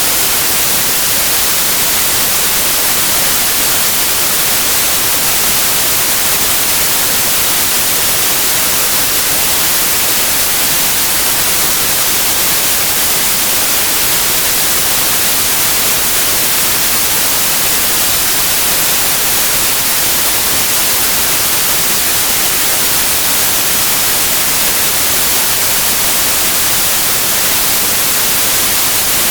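Steady white noise, an even hiss brightest in the high end, with no melody, rhythm or change.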